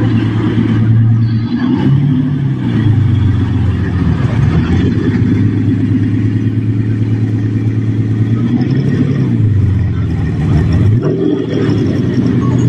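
Supercar engine running loud and low, its pitch dipping and climbing back up three times.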